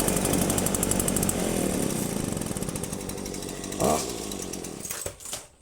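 Husqvarna string trimmer and leaf blower engines running together, then switched off: the sound fades over the last few seconds, with a brief sweep in pitch about four seconds in, and dies away just before the end.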